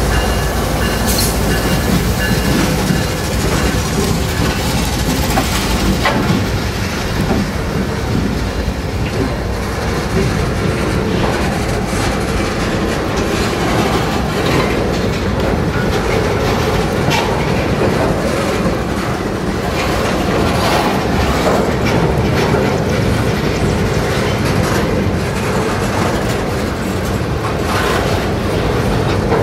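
Mixed freight train passing at speed. A diesel locomotive's engine is heard in the first few seconds, with a brief wheel squeal at the start. Then the freight cars roll by with a steady rumble and repeated clicks from the wheels crossing rail joints.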